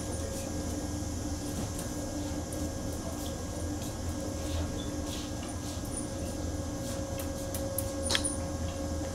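Stationary train's steady hum: a low drone carrying two steady tones, with a few faint clicks and one sharper click near the end.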